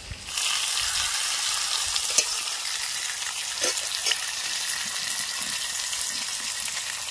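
Potato wedges, sliced onion and green chillies sizzling steadily in hot oil in a metal kadai, with a few sharp knocks of a steel spatula against the pan as they are stirred.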